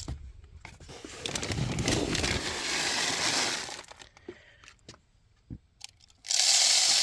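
Wild bird seed poured from its bag into a tube bird feeder: a rushing, rattling pour of seed with bag crinkling. A few scattered clicks of seeds follow, then a second louder pour near the end.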